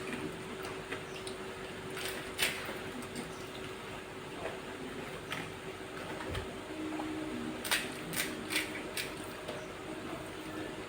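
People eating fuchka (pani puri): hollow puri shells filled with sour tamarind water bitten and chewed wetly, with a sharp crunch about two seconds in and a run of crunches around eight seconds in, over a steady low hum.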